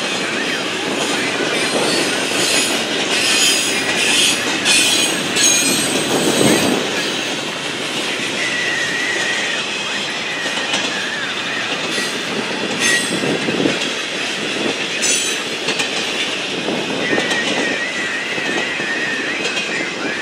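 Double-stack container train rolling past: a steady rumble and clatter of steel wheels on rail. A thin wheel squeal rises over it a few times, about halfway through and again near the end.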